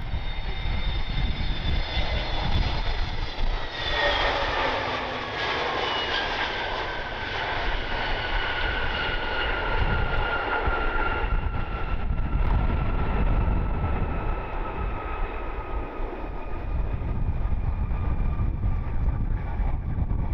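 Jet airliner passing on its landing approach. The engines' whine slides slowly downward in pitch, with a rush of engine noise swelling about four seconds in.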